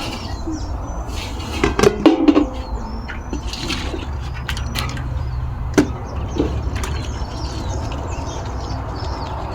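Steady water noise, with a few sharp knocks of kitchen utensils, a cluster about two seconds in and one more near six seconds.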